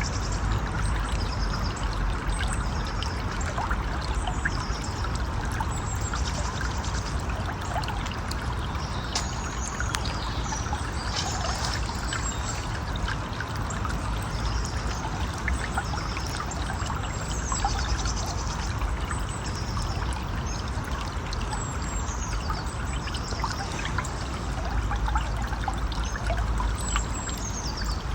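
River water flowing and trickling steadily, with short high chirps repeating over it.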